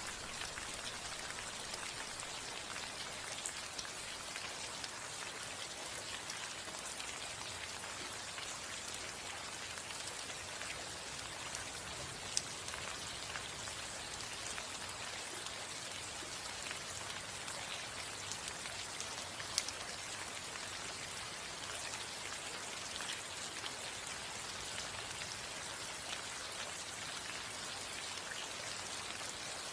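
Steady rain falling on a roof: a dense, even patter of drops, with a couple of slightly louder single drops standing out about twelve and twenty seconds in.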